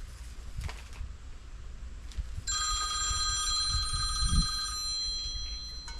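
Phone ringing: a ringtone of several steady tones that starts suddenly a little before halfway through and keeps ringing.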